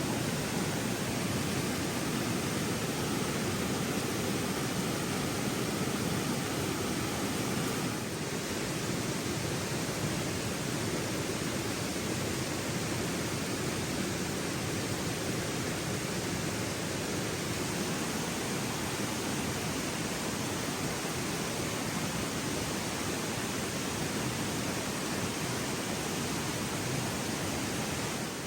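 Steady rush of a flowing river, an even noise with no breaks, dropping slightly in level about eight seconds in.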